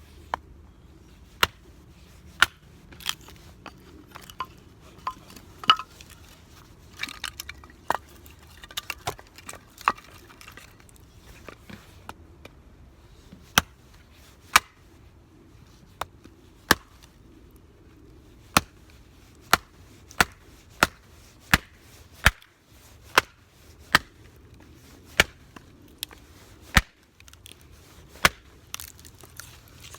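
Chopping: a series of sharp knocks, about one a second through the middle of the run, with smaller irregular crackly taps in between early on.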